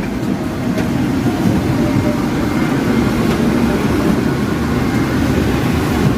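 Steady low rumble of an airliner's cabin noise.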